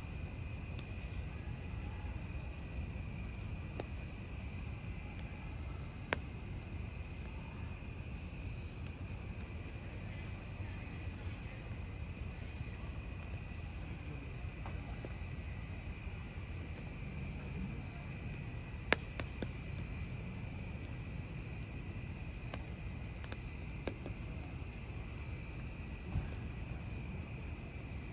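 Crickets trilling steadily over a burning wood campfire. The fire gives a low steady rumble and a few sharp crackling pops, the loudest about two-thirds of the way through.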